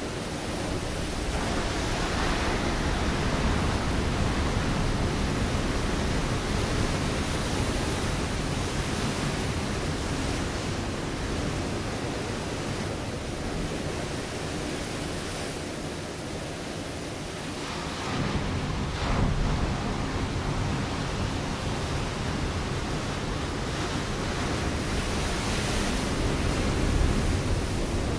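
Ocean waves breaking on a rocky shore: a continuous rushing wash of surf that swells and ebbs, with fresh surges about 2 seconds in, about 18 seconds in and again near the end.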